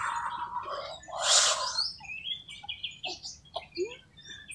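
Small birds chirping in quick, short high notes, with a brief breathy rush of noise about a second and a half in.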